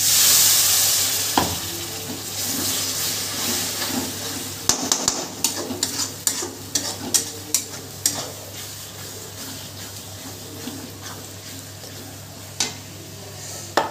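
Spice masala sizzling sharply in a kadai as a little water hits the hot oil, then frying steadily. A steel spoon stirs and scrapes against the pan, with a quick run of clicks from about five to eight seconds in.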